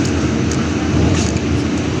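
Steady engine and road noise heard from inside a moving city bus, with a low hum, and a couple of brief clicks about half a second and a little over a second in.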